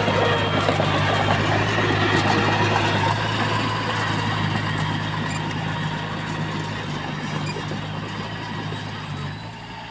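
Heavy diesel engine of construction machinery running steadily with an even low drone, growing quieter over the second half.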